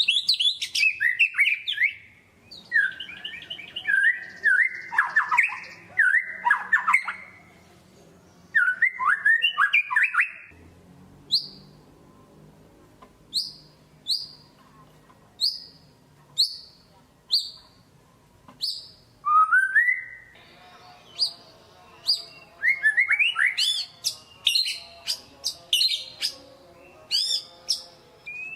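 White-rumped shama (murai batu) in full, vigorous song. It opens with rich, varied whistled phrases, then gives a string of sharp, high single notes about one a second, and near the end breaks into fast, varied phrases again.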